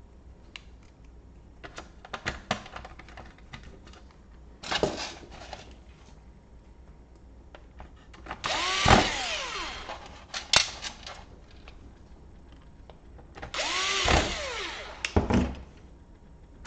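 Small electric screwdriver running in two short spells of about a second and a half, its motor whirring up and winding down as it drives laptop screws, with scattered clicks and knocks of parts being handled in between.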